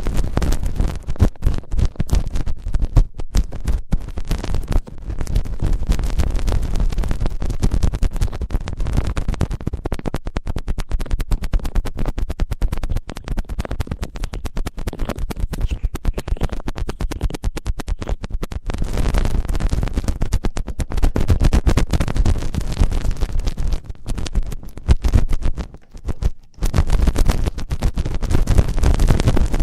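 Close-up ASMR ear-cleaning sounds on a microphone's ear: dense, loud scratching and crackling rubs with a heavy low rumble, pausing briefly near the end.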